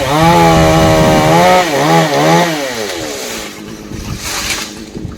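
Two-stroke chainsaw revved to full throttle and held there, dipping briefly twice, then easing back to idle about three seconds in.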